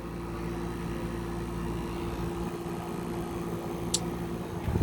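GE 5,050 BTU window air conditioner running on low cool, its Gree rotary compressor and fan motor giving a steady hum with a clear steady tone. A single short click about four seconds in.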